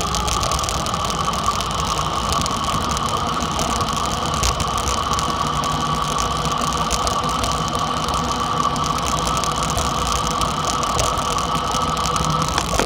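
Dirt bike engine running at a steady speed, holding an even pitch with a whine over a low rumble.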